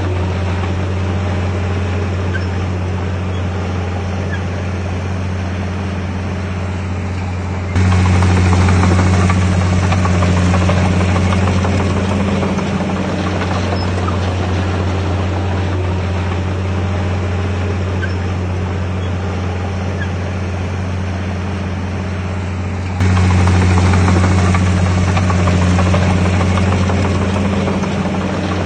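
Komatsu D51PX bulldozer's diesel engine running under load with a steady low drone. It gets abruptly louder about eight seconds in and again near the end, then eases back each time.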